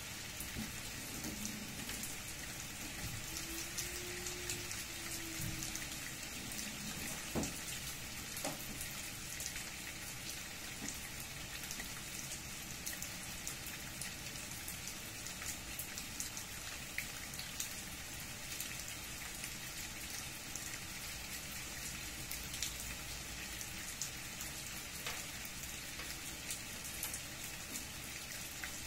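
Steady rain falling, an even hiss with individual drops ticking sharply here and there throughout.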